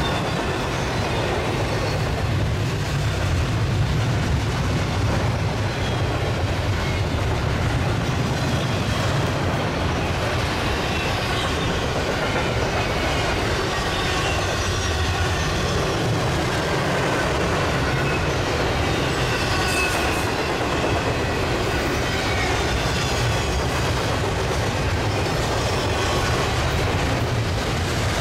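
Union Pacific double-stack container train rolling past: a steady rumble of wheels on the rails with clickety-clack over the joints and a faint high wheel squeal now and then.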